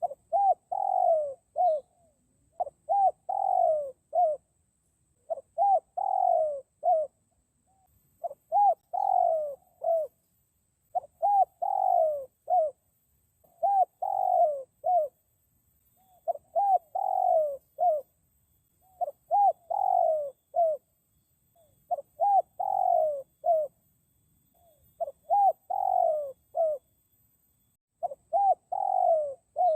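Spotted dove (dekukur) cooing: short phrases of a few arched coo notes, repeated steadily about every two and a half to three seconds.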